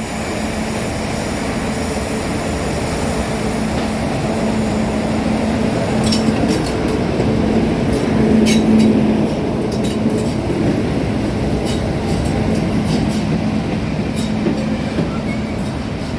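A pair of British Rail Class 50 diesel locomotives, each with an English Electric 16-cylinder engine, running with a steady, loud engine drone. Sharp metallic clicks from the train come about six to ten seconds in.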